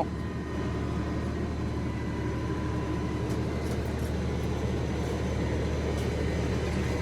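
LS compact tractor's diesel engine running steadily at a constant speed.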